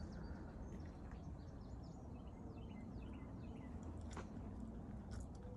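Small birds chirping and singing in short, high, falling notes, heard faintly over a steady low outdoor background noise, with a couple of brief clicks.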